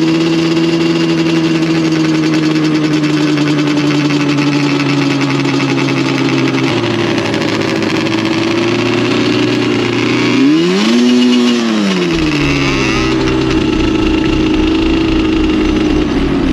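ATV engine running at a steady speed, its note drifting slowly lower, then revved up and back down once about ten and a half seconds in before settling back to a steady pitch.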